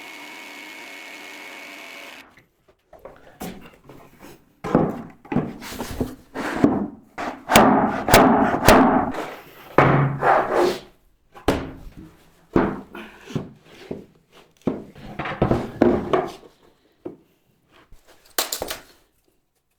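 A power tool running steadily stops about two seconds in. It is followed by a long run of irregular wooden knocks and thuds, the sound of wood being worked and handled.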